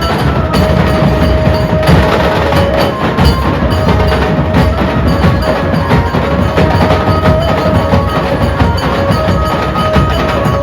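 A Mumbai dhol group drumming a dense, fast, continuous rhythm, with a ringing pitched tone sounding now and then over the drums.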